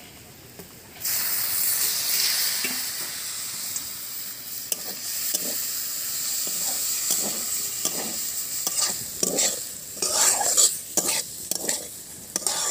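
Snail meat tipped into hot oil in a steel wok about a second in, starting a sudden loud sizzle that slowly eases off. It is then stirred with a metal spatula, which scrapes against the pan in repeated strokes while the meat keeps frying.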